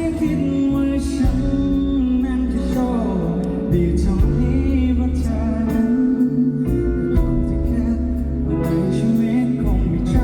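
A live pop band playing a song at a concert: a sung lead vocal over bass notes and a steady drum beat, recorded from the audience.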